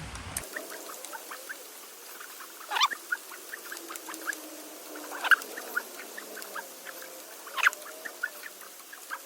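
Scattered light clicks with a few sharper knocks, about three, five and seven and a half seconds in, as the big-block Mopar 400's crankshaft is turned over by hand with a tool for a compression test.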